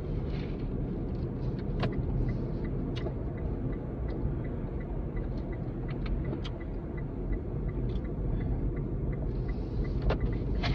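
Car cabin road and engine rumble while driving, with the turn signal clicking steadily, about two to three ticks a second, during a lane change.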